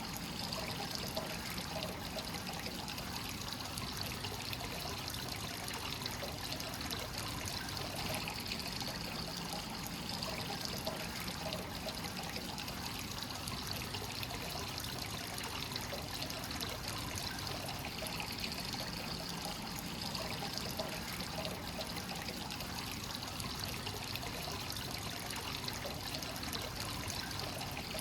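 Hot spring water pouring steadily into a bath, a continuous trickling and splashing of free-flowing source water.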